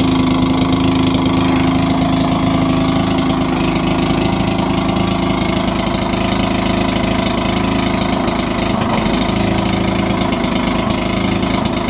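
Maytag Model 72 two-stroke gasoline engine running steadily, driving the washing machine.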